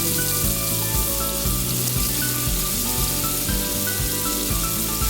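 Marinated chicken frying in hot oil in a pan, a steady dense sizzle, with background music playing.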